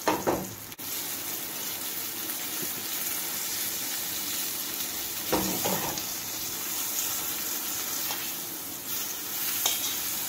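Chicken breasts frying in melted butter in a frying pan: a steady sizzle, with a few brief utensil knocks and scrapes as the pieces are turned over.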